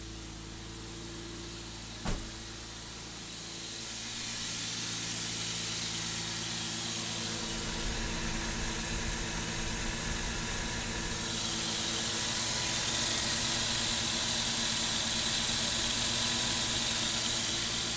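Toyota pickup engine running at a raised idle with the air-conditioning compressor engaged, heard as a steady engine hum under a hiss of engine-bay noise. There is a single knock about two seconds in. The hiss grows louder from about four seconds and again from about eleven seconds.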